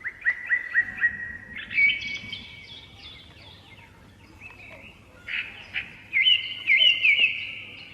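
Songbirds singing: a quick run of repeated chirps at first, then varied warbling phrases, with a loud burst of chirping about six seconds in.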